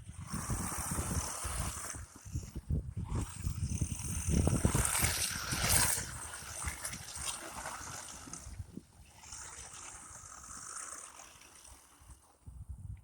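A 1/10-scale electric RC short-course truck driving through snow: its motor whines while the tyres churn and spray snow. It swells loudest around the middle, then fades toward the end.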